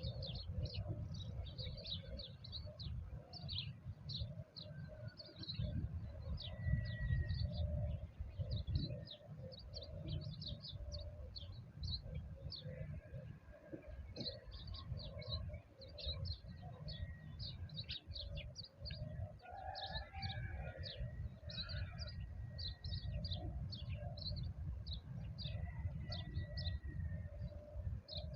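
Small birds chirping rapidly and continuously, with a lower call repeating underneath, over a steady low rumble.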